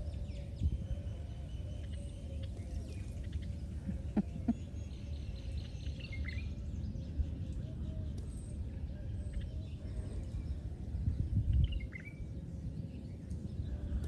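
Small birds chirping now and then over a steady low outdoor rumble and a faint steady hum.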